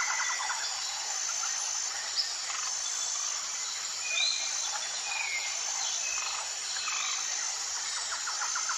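Jungle ambience of a steady insect chorus, with a short high whistle note repeating about every second and a quarter. Scattered bird chirps and glides sound over it, and a rapid pulsed trill plays at the start and comes back near the end.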